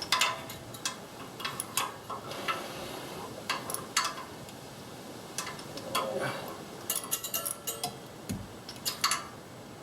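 Metal hand tools clicking and clinking at an irregular pace, a wrench working on the exhaust manifold bolts of a Prius engine from underneath.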